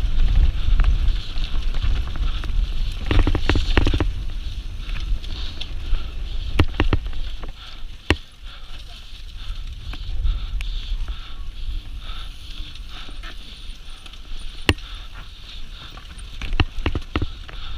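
Steady low rumble of wind buffeting the microphone, with scattered sharp clicks and knocks: a short cluster about three seconds in and more later.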